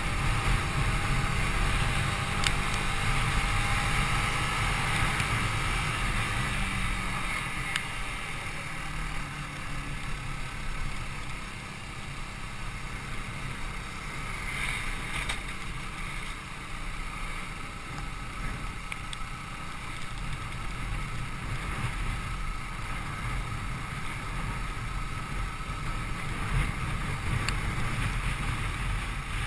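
A Yamaha YZF-R125's single-cylinder 125cc four-stroke engine running on the move, mixed with wind and road rush. It gets quieter for a while in the middle and picks up again later.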